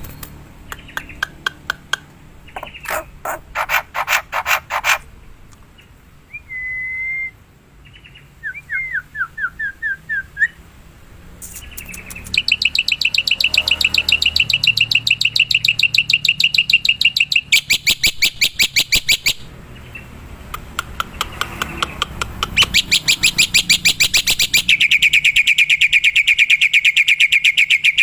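Black-winged myna (jalak putih) calling in bursts of rapid rattling chatter, with a few short whistled notes in between. In the second half it gives long, fast, rattling trills.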